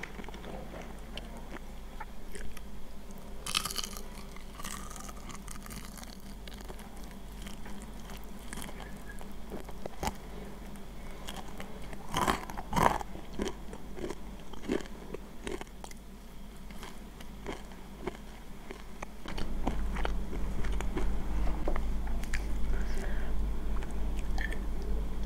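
Close-up chewing and crunching of crispy breaded fried chicken, with a loud run of crunchy bites about three and a half seconds in and the loudest about twelve to thirteen seconds in. A low rumble comes up about two-thirds of the way through under the chewing.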